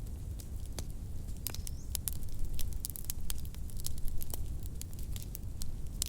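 Wood fire in a fireplace burning steadily with a low rumble, and irregular crackles and pops from the burning logs. A brief faint rising whistle sounds about a second and a half in.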